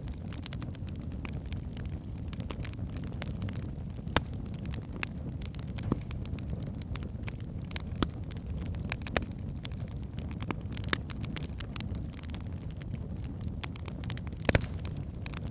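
Wood fire burning in a fireplace: a steady low rumble of flames with irregular sharp crackles and pops from the burning logs, a few louder pops standing out, the biggest near the end.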